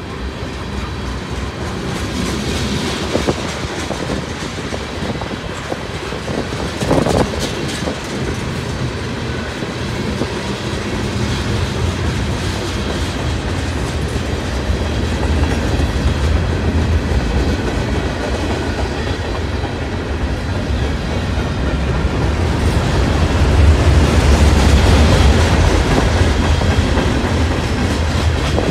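Freight cars rolling past: steel wheels rumbling and clattering over the rail, with a sharp bang about seven seconds in. The low rumble swells louder near the end as the tank cars give way to covered hopper cars.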